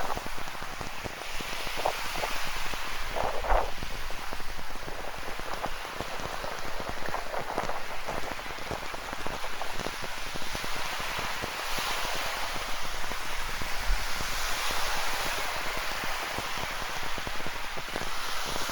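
Steady rain falling, with many individual drops close by, over a continuous wash of ocean surf that swells twice in the second half.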